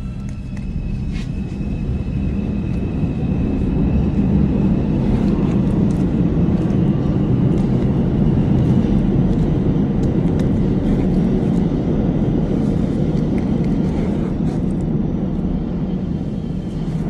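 Steady low road and engine rumble of a moving car heard from inside the cabin. It grows louder over the first few seconds, holds, then eases off near the end.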